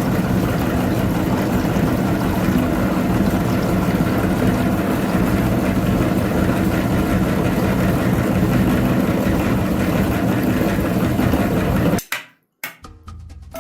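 Mini tractor engine running steadily at idle. It cuts off abruptly near the end, followed by a few clicks and short musical tones.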